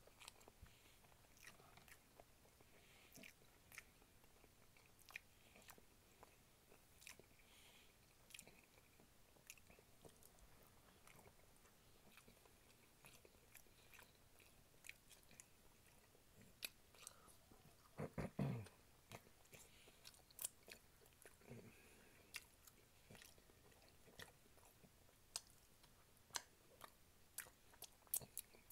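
Close-miked chewing and wet mouth sounds of a person eating oxtail meat off the bone by hand, with frequent short lip smacks and clicks. One louder, low-pitched sound stands out about eighteen seconds in.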